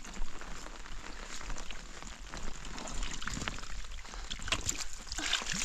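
Water pattering and trickling, with many irregular small taps.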